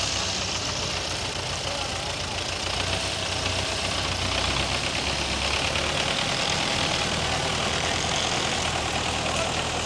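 Belarus 510 tractor's diesel engine running steadily at an even speed.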